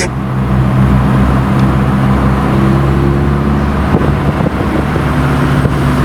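Car-audio subwoofers playing heavy bass: several deep, steady low notes held for seconds, with a few higher notes coming in and out and very little treble above them.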